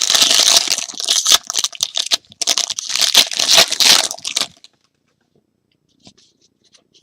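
Foil trading-card pack wrapper being crinkled and torn open by hand, a dense crackling for about four and a half seconds, then a few faint clicks of cards being handled.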